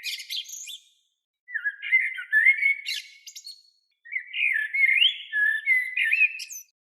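A songbird singing three warbling phrases of quick gliding and chattering notes, each lasting one to two and a half seconds, with short pauses between them.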